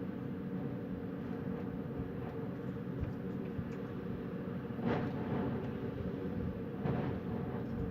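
Wind blowing steadily as a low rumble, with two brief stronger gusts about five and seven seconds in.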